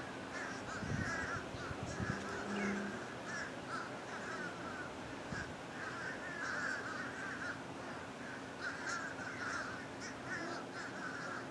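A bird calling over and over in short calls that come in quick runs, with brief gaps between them.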